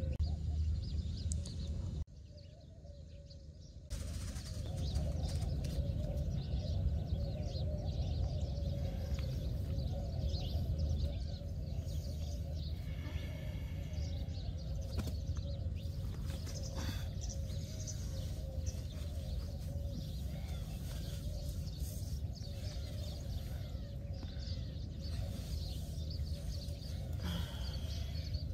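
Birds chirping now and then over a steady low outdoor rumble, with a brief quieter gap about two seconds in.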